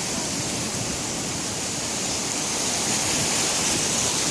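Sea surf washing on the shore, a steady rushing noise that grows a little louder about three seconds in.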